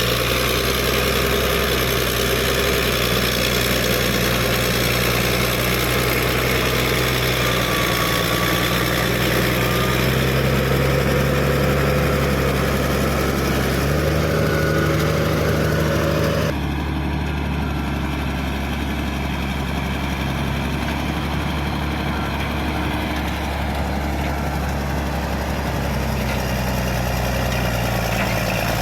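Caterpillar D6D bulldozer's diesel engine running steadily. The sound changes abruptly a little past halfway through.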